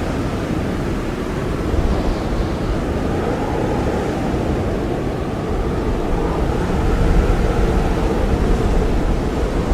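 Blizzard wind blowing hard and steadily: a deep rumble with a faint howling tone that slowly wavers in pitch. It gusts a little louder about seven seconds in.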